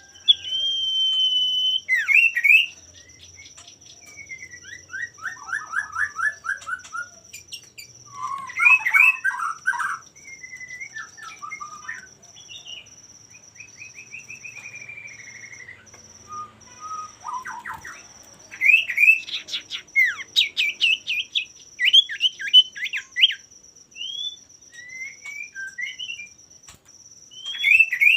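Male common iora (cipoh) singing vigorously: a held whistle, then falling strings of notes, chatters and rapid trills in quick succession, with short pauses between phrases. A steady high-pitched whine runs underneath.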